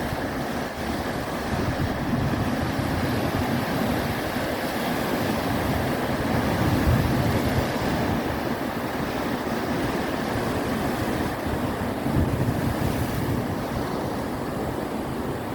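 Ocean surf washing and breaking in a steady rush, with wind buffeting the microphone.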